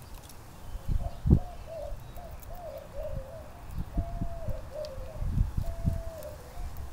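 Dove cooing: a run of low hooting coos lasting several seconds. Wind buffets the microphone in low gusts.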